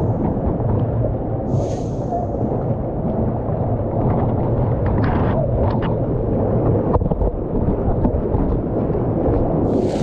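Steady, low rush of river water close to the microphone, with a few faint clicks and small splashes about halfway through.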